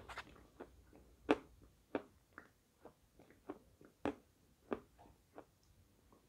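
Close-miked mouth sounds of chewing a mouthful of chalk cream: a string of short, sharp, wet clicks and smacks, about two to three a second and uneven, two of them louder than the rest.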